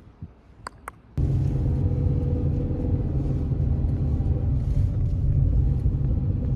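Low, steady vehicle rumble with an engine hum in it. It starts suddenly about a second in and stops suddenly at the end.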